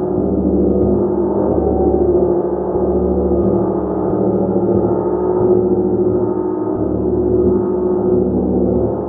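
A gong played continuously, giving a dense wash of low, humming tones whose loudness swells and eases every second or two as it is struck again.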